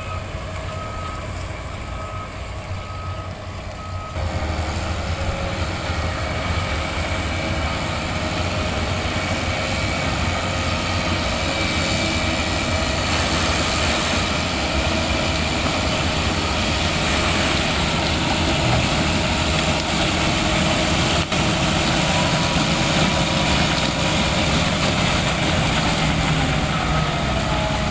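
Heavy land-clearing machine working, its diesel engine under load, with a reversing alarm beeping. The beeping stops about four seconds in, when the engine gets louder and holds there, and starts again near the end.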